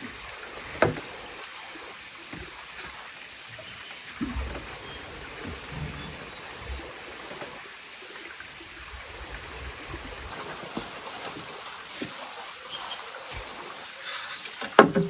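Steady rushing water, with a sharp knock about a second in, a few soft low thuds in the middle and a quick cluster of knocks near the end.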